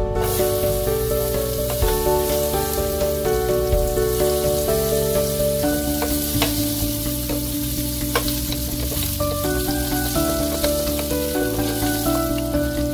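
Sliced vegetables sizzling in hot oil in a frying pan, the hiss starting suddenly as they go in, with a few sharp clicks as they are stirred. Background music plays underneath.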